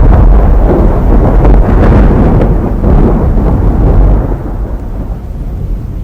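Model JR 215 series train running on its track: a loud, even rumbling noise that eases down over the last two seconds.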